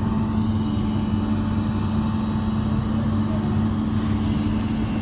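Komatsu backhoe loader's diesel engine running at a steady speed.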